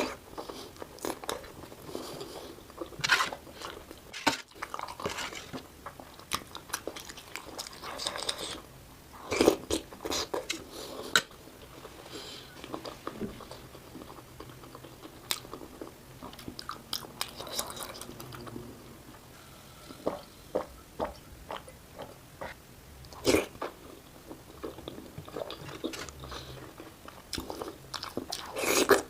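Close-miked eating of momo dumplings: irregular wet biting, chewing and mouth-smacking clicks, played back at double speed.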